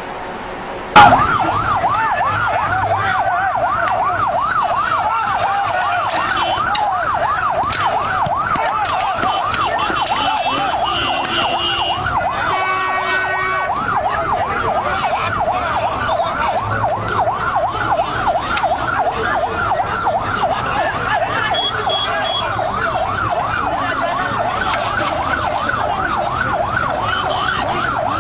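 Emergency vehicle siren in a fast yelp, its pitch swinging up and down about three times a second, starting about a second in after a sharp click. A brief steady tone cuts in around the middle.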